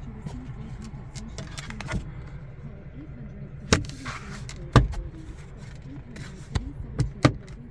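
Several sharp clicks and knocks at irregular intervals, two or three in quick succession near the end, over a low steady hum in a car cabin.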